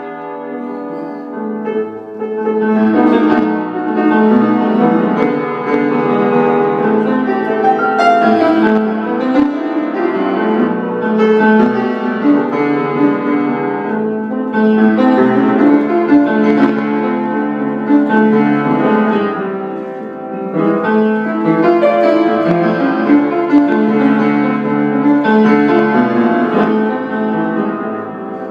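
Improvised blues-style piano or keyboard playing, an instrumental stretch with full chords and melody notes.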